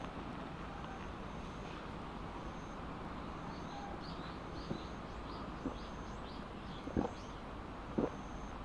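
Small birds chirping: a short high peep repeats about once a second, with a run of quick falling chirps in the middle, over a steady background hiss. A few soft knocks come in the second half.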